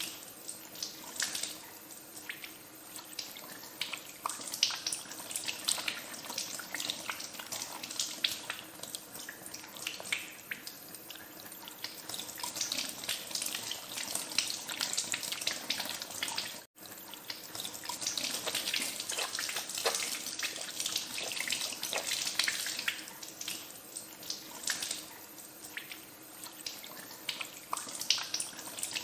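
Tap water running into a sink while hands are washed under it, with irregular splashes. The sound cuts out for an instant about halfway through.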